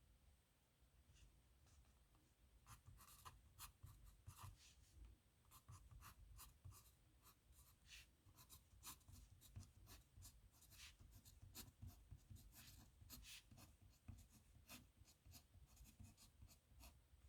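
Faint scratching of a metal nib pen on paper, a quick irregular run of short strokes starting about two seconds in, as letters are written.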